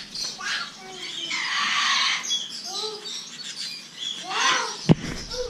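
Caged pet birds chirping and squawking, with a longer harsh squawk about a second and a half in. A single sharp knock near the end.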